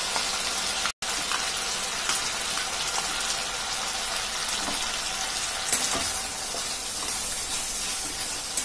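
Onion-and-spice masala sizzling in hot mustard oil in a metal kadai as curd is added and stirred in, with a few light scrapes of a metal spatula. The sizzle is steady, with a brief break about a second in.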